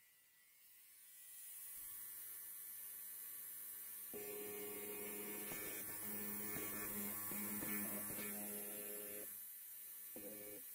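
Electric hair clipper buzzing steadily, fading in over the first couple of seconds. From about four seconds in it gets louder and rougher with a crackle, then drops back near the end.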